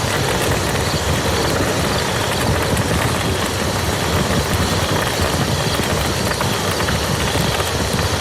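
Steady rain falling on a muddy field: an even, continuous hiss dense with fine drop impacts, over a low rumble.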